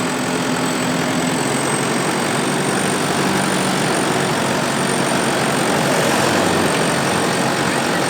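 Diesel 4x4 SUV engine running steadily under load, with a constant rush of noise over it, as the vehicle works through soft off-road ground.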